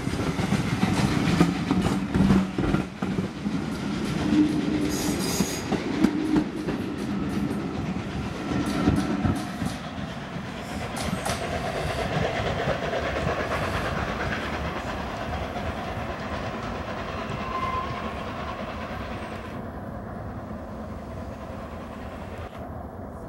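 Passenger coaches of a train passing close by, their wheels clacking over the rail joints and rumbling loudly. About ten seconds in the clacking thins out, and the train's rumble fades steadily as it draws away.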